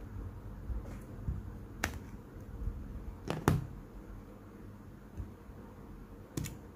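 A few sharp, short clicks and taps of small tools and parts during iPhone 4s disassembly: a single click, then a quick double click in the middle, then another near the end, over a low background rumble.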